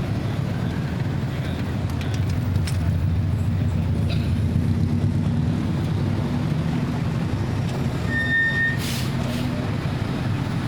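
Steady rumble of idling and passing vehicle engines in city traffic, with a few light clicks. About eight seconds in there is a short high beep, followed by a brief hiss.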